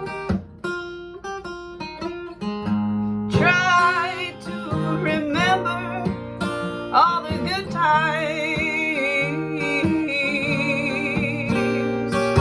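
A woman singing with vibrato over an acoustic guitar, in a slow folk song. The guitar plays alone for the first three seconds or so before the voice comes back in.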